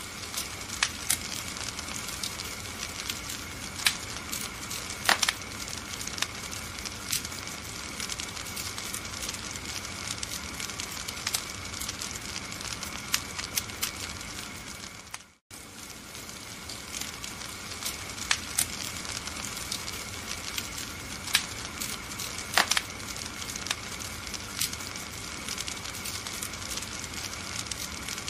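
Wood fire burning in a fireplace: a steady hiss with frequent sharp crackles and occasional louder pops. About halfway through, the sound briefly fades out and starts again.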